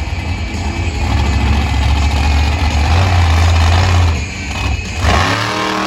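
Monster truck engine running hard at high revs, a deep rumble that builds over the first few seconds. It eases briefly about four seconds in, surges again, then its pitch drops sharply as the throttle comes off near the end.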